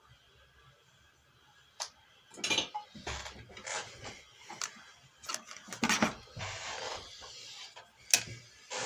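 Irregular clicks, knocks and short scrapes of small hard objects being handled, starting about two seconds in, with a sharp click near the end.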